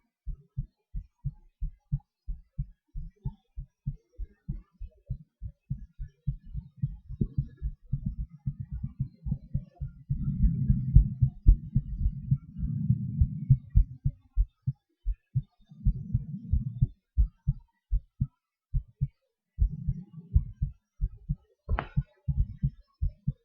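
Human heartbeat picked up close on the chest, a regular run of low lub-dub thuds. Breath sounds rush beneath it in several stretches in the middle and later on, and a single sharp click comes near the end.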